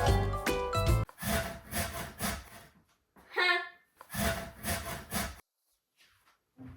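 Background music that stops about a second in, then two runs of rasping, scraping strokes with a short squeaky tone between them.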